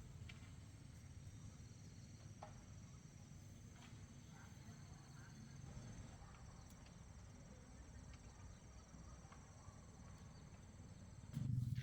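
Quiet background with faint, steady insect chirring high up over a low rumble, and a louder thump near the end.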